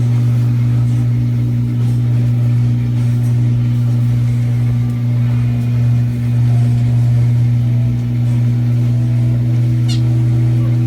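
Steady low hum of a motor or electrical appliance, holding one pitch throughout. A brief high squeak comes near the end.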